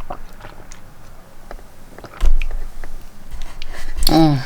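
A person drinking water, with small mouth and swallowing sounds and a loud low gulp or thump about two seconds in. A short vocal sound comes near the end.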